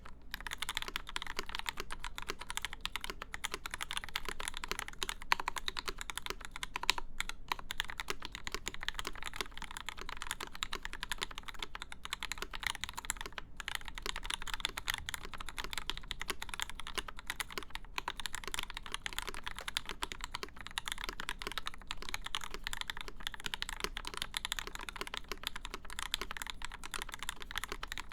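Continuous fast typing on a CFTKB Discipline v2 mechanical keyboard with lubed Gateron Ink linear switches, a full aluminium plate, an acrylic case and GMK keycaps: a steady, dense stream of keystroke clacks.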